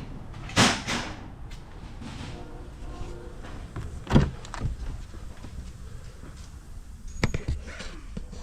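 Three pairs of sharp knocks or clunks: one pair near the start, one about four seconds in, one near the end, over a low rumble.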